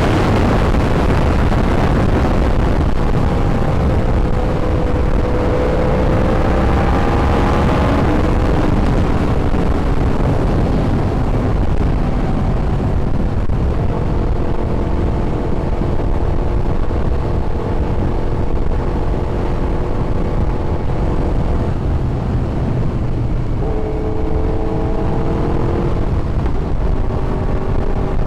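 Yamaha YZF-R1 inline-four engine running under way, its note stepping up and down in pitch several times over a steady low rumble.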